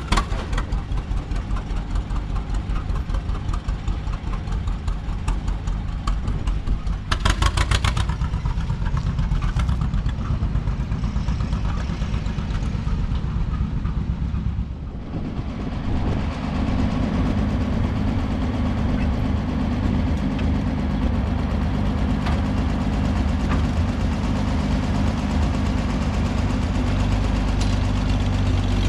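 John Deere 4520 diesel tractor engine running with its fuel turned up. It dips briefly about halfway, then runs steadily.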